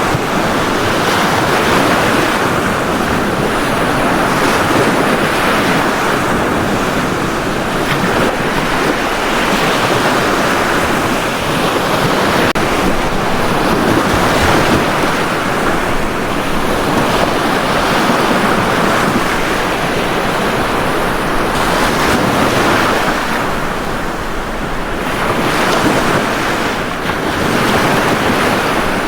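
Ocean surf: waves breaking and washing up a beach in a continuous roar that swells and eases every few seconds.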